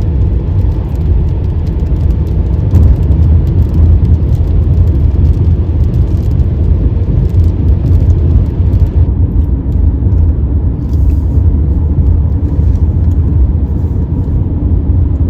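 Car driving at road speed, heard from inside the cabin: a steady low rumble of engine and road noise with no change in pace.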